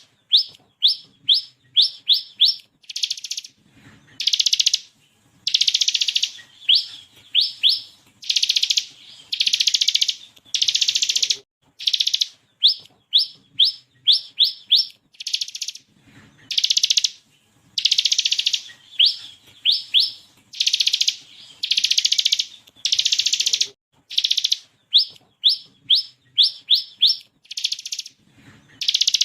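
Bar-winged prinia (ciblek kristal) singing hard: dense, buzzy trills of about a second alternate with quick runs of four to six short, sharp rising notes, over and over.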